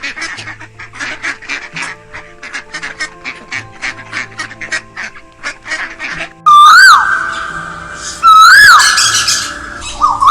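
Domestic fowl calling: a fast run of short calls, several a second, for about six seconds, then two loud, long calls about two seconds apart, each rising and falling at the start and then held on one note.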